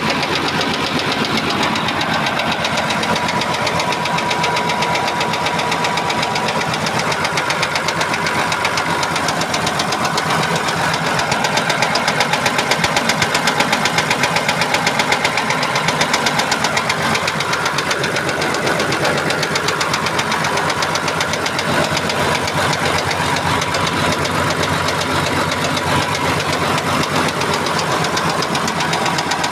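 Engine running steadily with a rapid, regular knocking, a little louder for a few seconds about midway.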